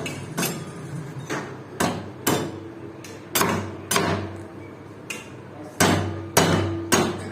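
A hammer struck about a dozen times at an uneven pace, each blow sharp, several leaving a short metallic ring.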